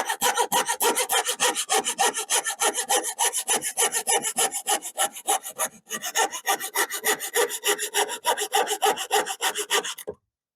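Hand saw cutting through wood with quick, even back-and-forth strokes, cutting out a curved piece along a marked line. There is a brief break about halfway, and the sawing stops just before the end as the piece comes free.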